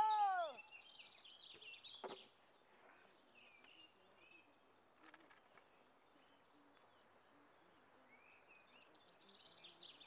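Birds chirping faintly in the background, short high calls scattered throughout. The first half-second carries the falling end of a loud animal call. A single knock comes about two seconds in.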